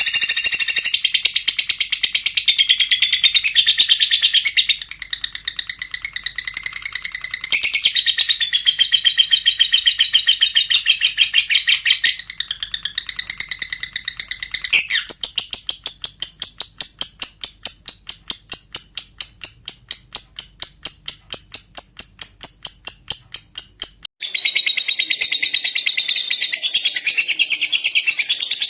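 Lovebird singing a shrill, rapid chattering song. About halfway through it changes to a fast, even run of repeated high chirps. After a brief break a little before the end, the chattering starts again.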